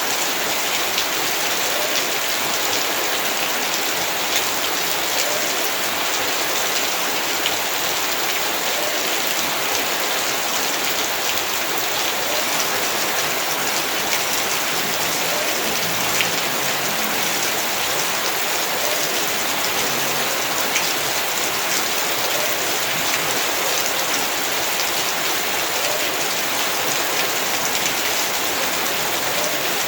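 Heavy rain falling steadily, with dense patter of drops striking surfaces.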